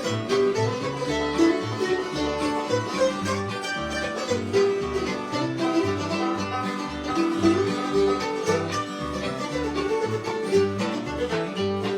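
Bluegrass band playing an instrumental break with no singing: fiddle and plucked strings over steady bass notes about twice a second.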